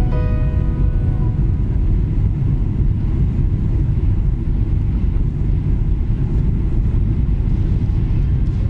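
Jet airliner cabin noise on landing: a steady, loud low rumble of engines and airflow heard from inside the cabin. The tail of harp-like music dies away right at the start.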